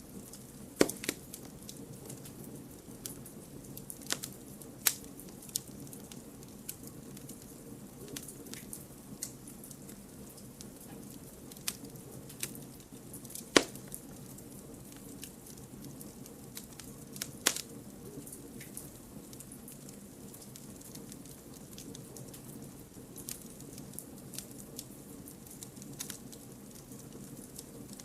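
Campfire of firewood burning, with a low steady hiss of flame and scattered sharp crackles and pops from the wood; the biggest pops come about a second in, near the middle and a little after.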